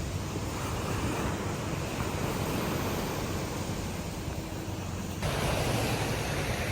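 Sea surf washing, with wind rumbling on the microphone. About five seconds in the sound changes abruptly to a brighter, hissier wash of waves.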